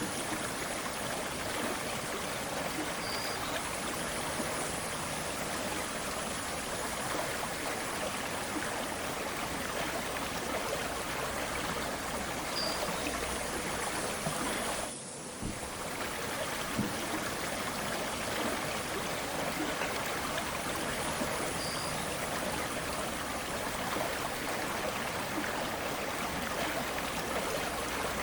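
Flowing river water, a steady rushing and rippling with no let-up apart from a brief dip about halfway through. Three faint, short high peeps are spaced through it.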